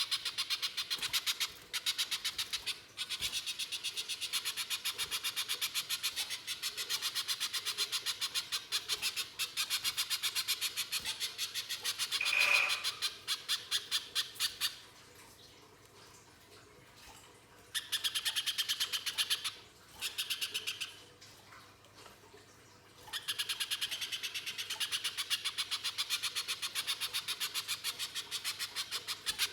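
Little spiderhunter (pijantung pisang) calling in long runs of rapid, harsh repeated chipping notes, broken by a few short pauses, with a single clear whistled note about halfway through.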